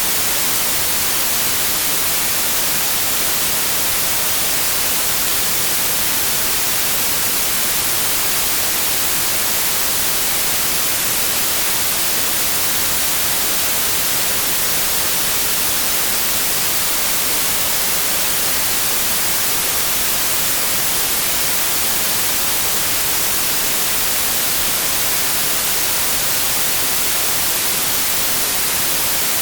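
Synthesized white noise: a steady, even hiss spread across all pitches, bright and unchanging throughout.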